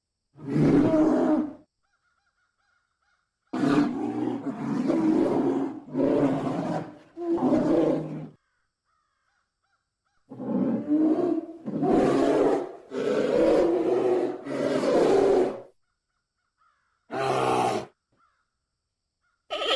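Giant panda vocalizing: loud, rough calls with pauses between them. There is a single call first, then a run of several calls, a second run after a pause, and a short call near the end.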